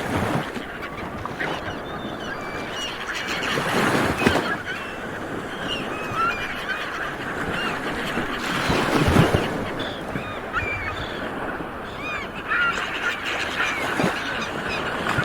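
A flock of seabirds calling at once: a dense chorus of many short squawking calls over a steady rush of noise that swells twice.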